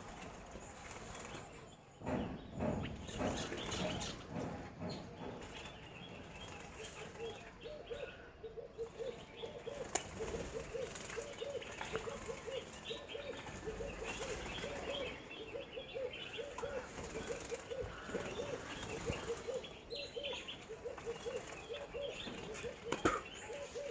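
Small garden birds at a water pool, chirping and calling, with a fast run of low, evenly repeated notes starting about seven seconds in.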